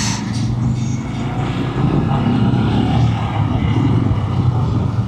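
Honda CRF300 dual-sport motorcycle engine running steadily while riding along at speed.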